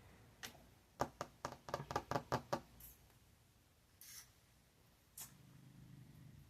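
Light, irregular clicks and taps in quick succession, then a few brief rustles: tarot cards being handled on a table.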